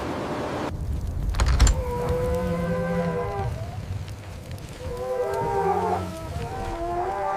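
Several wolves howling together, their overlapping calls at different pitches, in two bouts, the second starting about five seconds in. A low rumble runs underneath, and a dull thump comes about a second and a half in.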